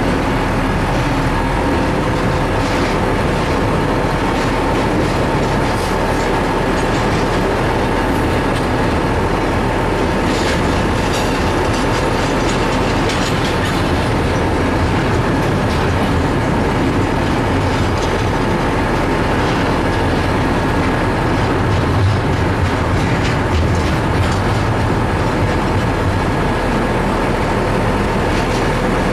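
Intermodal freight train of trailer and container flatcars rolling past close by: a steady, loud rumble and clatter of steel wheels on the rails, with scattered clanks as the cars go by.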